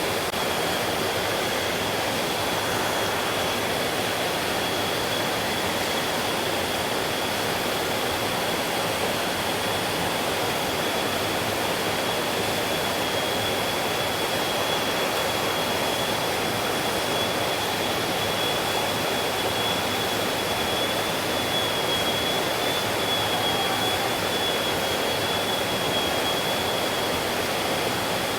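Mountain stream water rushing steadily over rocks, with a thin, steady high-pitched tone running above it.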